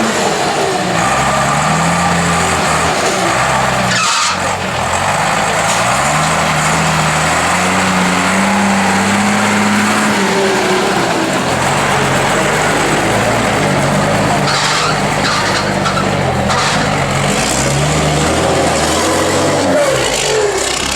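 Unimog rally-raid race truck's diesel engine revving hard, its pitch climbing and dropping again and again as it is driven through the gears off-road, with a brief dip about four seconds in.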